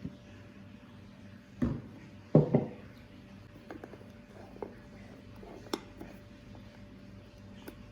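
Kitchen items being handled and set down: two solid knocks about one and a half and two and a half seconds in, then a few light clicks and taps, over a faint steady hum.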